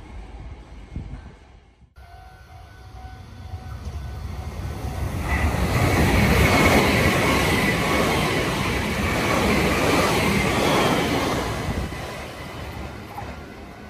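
Meitetsu 2000 series μSKY limited express electric train passing at speed: the running noise of wheels on rail builds from about two seconds in, is loudest in the middle with a steady high whine over it, then fades as the train goes away.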